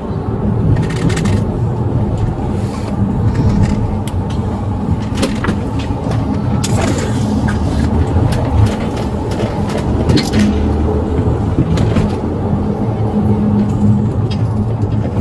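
A vehicle's engine and road noise, a steady low drone with occasional small clicks and knocks.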